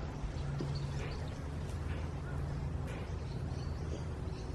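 Steady low outdoor rumble with faint, short bird chirps over it.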